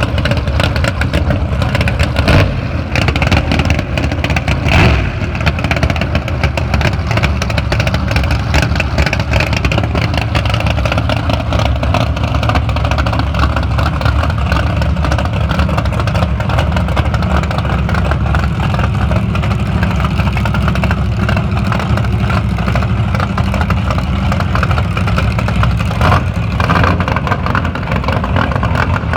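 Loud drag-race car engine running at a rough, lumpy idle, with a few brief throttle blips.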